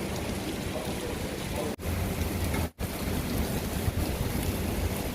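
Heavy rain falling steadily, a dense hiss with a low rumble underneath. It cuts out briefly twice near the middle.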